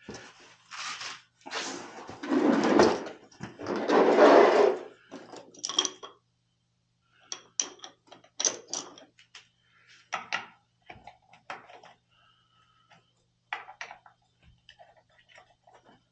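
Handling noise: a loud scraping rustle lasting about three seconds, then scattered clicks and light knocks as tools and parts are handled.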